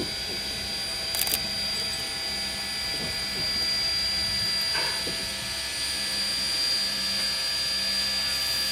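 Steady hiss and low rumble from steam locomotive K 88, with a thin high whine running through it and a couple of light clicks about a second in.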